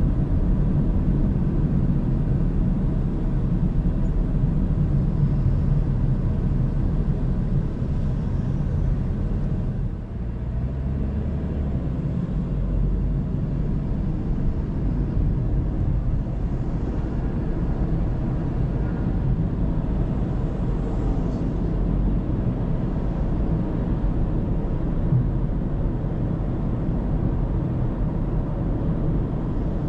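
Steady low rumble of a car driving on the road, tyre and engine noise picked up by a dashcam, with a brief dip in loudness about ten seconds in.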